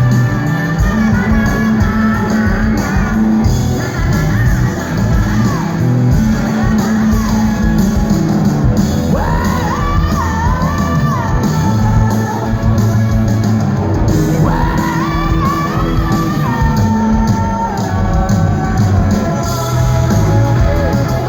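A live rock band playing loud, with singing. Two long, high held notes come in the middle of the stretch.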